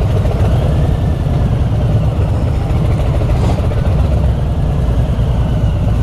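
Motorcycle engine running steadily at low speed in slow street traffic, a deep, even low-pitched sound.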